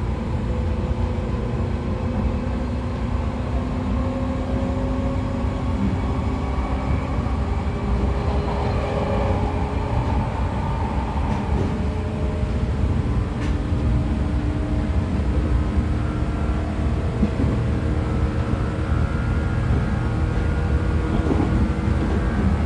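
JR 113 series electric train running at speed, heard from inside motor car MoHa 113-5716: a steady rumble of wheels on rail with the whine of its MT54 DC series-wound traction motors and gearing, the tones drifting slowly in pitch.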